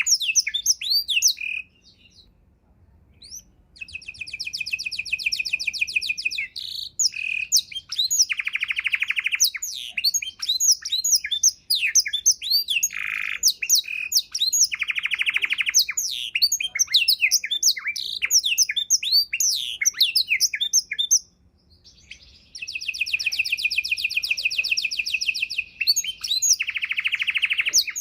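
Canary singing a long, varied song: fast rolling trills held for a second or two, alternating with quick sweeping chirps and whistles. There are two brief pauses, one near the start and one about three-quarters of the way through.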